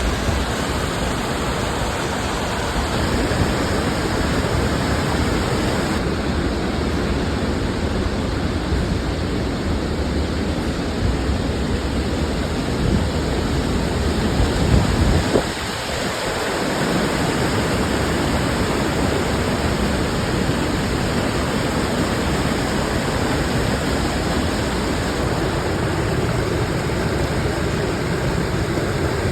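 Steady rushing roar of a large waterfall pouring into its pool, with a brief change in the low rumble about halfway through.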